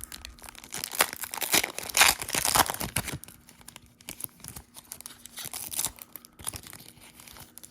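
A foil trading-card pack being torn open and its wrapper crinkled, loudest in the first three seconds, then softer crinkling.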